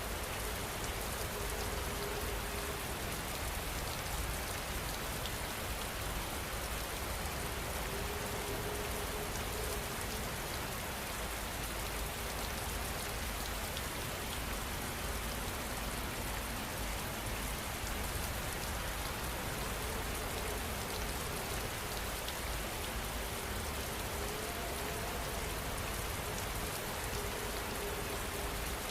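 Steady rain falling on surfaces, an even hiss of many drops that holds the same level throughout.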